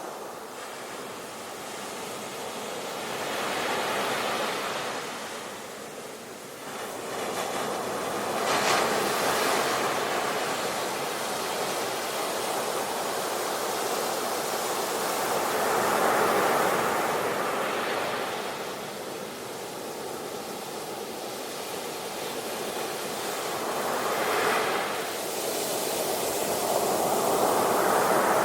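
Ocean waves breaking, a steady wash of surf that swells with each wave and fades again, about five surges in the span.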